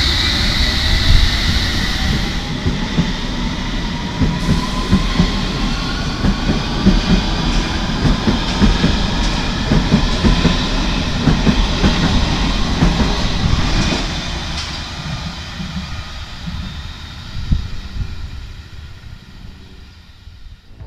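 London Underground S8 Stock electric train pulling away, its traction motors whining in several tones that rise steadily in pitch, with wheels clattering over rail joints. The sound fades away over the last several seconds.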